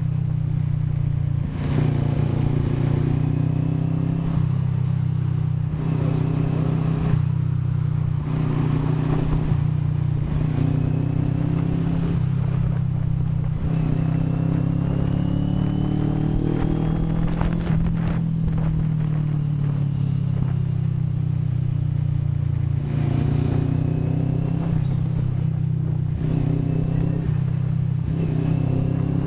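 CFMoto 400NK motorcycle's parallel-twin engine running on the road, its pitch rising and falling several times as it accelerates and eases off, with one long climb about halfway through before dropping away.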